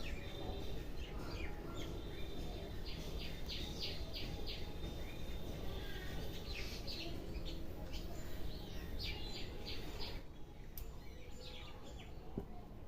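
A small bird chirping in short rapid series, a few bursts of chirps several seconds apart, over a steady background noise.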